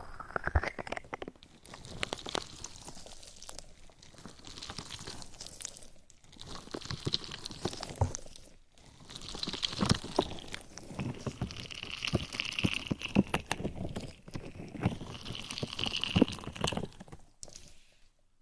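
Close-miked ASMR trigger sounds: dense crackling, crunching and clicking right on the microphone, coming in uneven clusters with short pauses between them.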